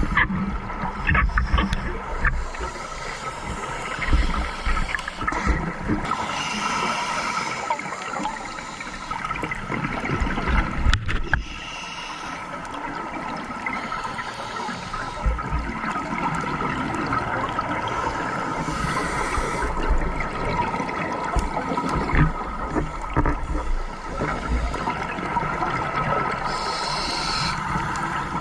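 Underwater sound of a scuba diver's exhaled bubbles gurgling out in irregular gushes every few seconds, over a steady hum.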